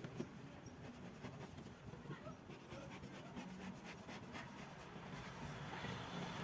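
Faint light scratching or rubbing strokes, with a quick run of them in the middle.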